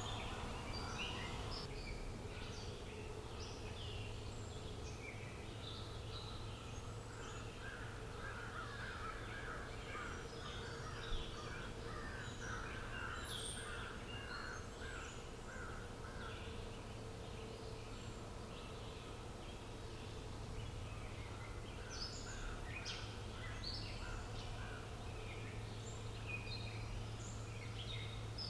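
A chorus of wild birds chirping and singing, with many short calls overlapping, and a run of rapidly repeated lower notes in the middle. A steady low hum runs underneath, and there is a single click about eleven seconds in.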